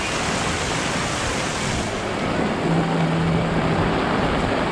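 Heavy rain pouring down onto a wet paved street, a dense steady hiss of falling and splashing water. The high part of the hiss softens a little about two seconds in, and a low steady hum sounds briefly near the middle.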